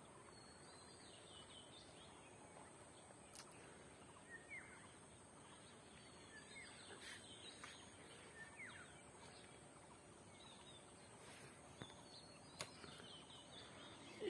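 Near-silent rural ambience with faint, scattered bird chirps, short quick calls heard now and then, and a few faint clicks.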